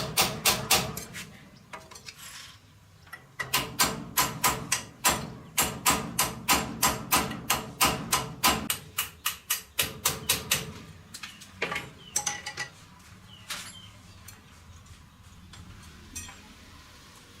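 Hammer blows on metal, struck at a steady pace of about three a second with a ringing note. The hammering stops about a second in, resumes a couple of seconds later and runs until about ten seconds in. A few scattered knocks and clinks follow.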